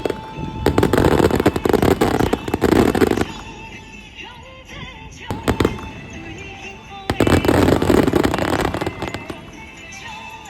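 Fireworks going off: two dense volleys of rapid crackling bangs, each lasting about two to three seconds, with scattered single bangs between them.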